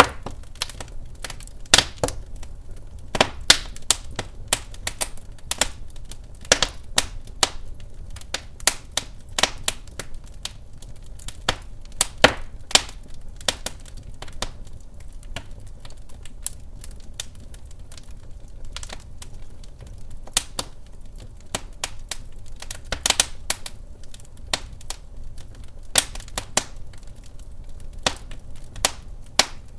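Wood fire crackling in a fireplace: irregular sharp pops and snaps, several a second at uneven intervals, over a steady low rumble.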